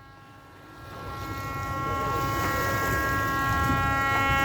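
A motorboat engine running with a steady, buzzing hum over a low rumble, growing louder over the first two seconds as it comes closer.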